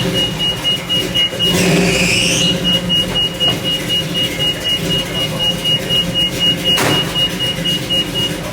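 A car engine running, with a high electronic beep repeating in rapid pulses over it and a single sharp knock about seven seconds in.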